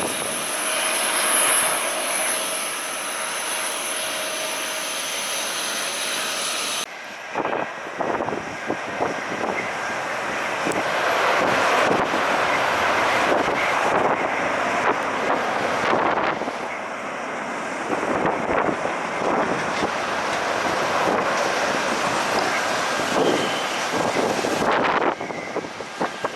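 Jet airliner engines running, with a high whine over the rush for the first few seconds. The sound then changes abruptly to a louder, uneven rushing that swells and falls with gusts of wind on the microphone.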